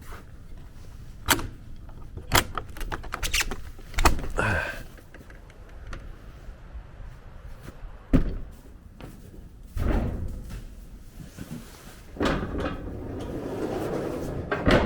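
Barn stall doors and their latches being worked: a series of sharp clanks, knocks and thuds, the loudest about four seconds in with a brief squeak after it, and a rougher sliding noise near the end.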